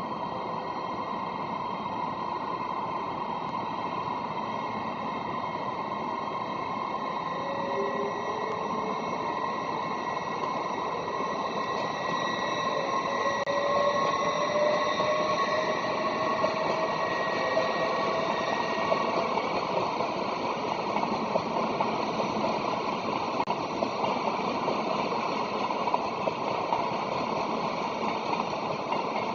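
A passenger train pulls away through the station, heard from a distance as a steady noise that swells over the first half. A faint whine rises slowly in pitch as the train picks up speed.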